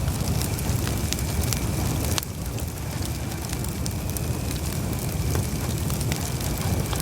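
Campfire burning: a steady low rumble of flames with many small sharp crackles and pops scattered throughout, dipping briefly in level about two seconds in.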